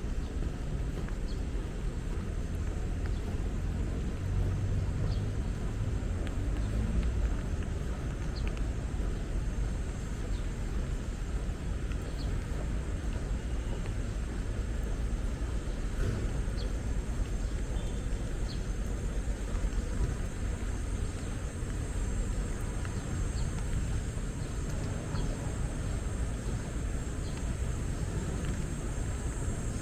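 Steady low rumble of city traffic, with faint, scattered short high chirps over it.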